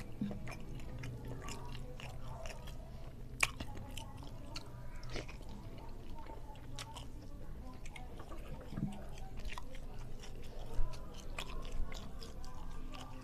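Close-up sounds of a man eating a rice meal by hand: steady chewing with many scattered sharp clicks, the loudest about three and a half seconds in and again near eleven seconds.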